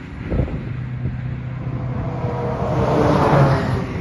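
Freeway traffic going by: a vehicle's tyre and engine noise swells to a peak about three seconds in and fades, over a steady low hum.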